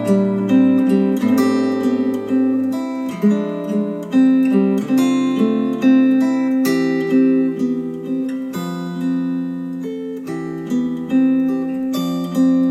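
Acoustic guitar music, picked notes and ringing chords, played back through Polk Audio Reserve R200 bookshelf speakers.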